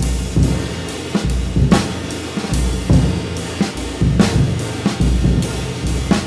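Drum kit groove with kick and snare strikes, the cymbal riding over it: a handmade 20-inch flat medium ride of B20 bronze.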